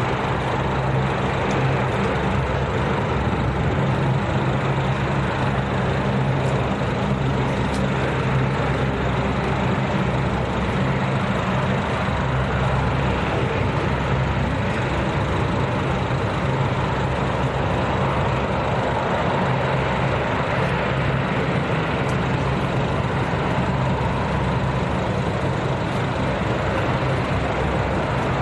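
A steady engine drone with a low hum, unchanging in level and pitch.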